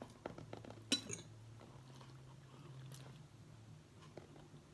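Faint chewing and small mouth clicks as noodles are eaten, the sharpest click about a second in, over a steady low hum.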